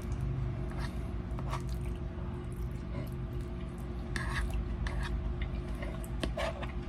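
A man chewing a mouthful of baked potato, with a fork clicking against a plate now and then, over a steady low hum.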